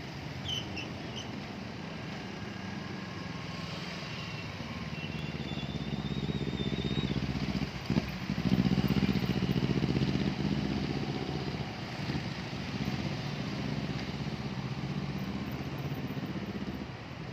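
A motor engine running steadily, growing louder about halfway through, with a sharp knock about eight seconds in.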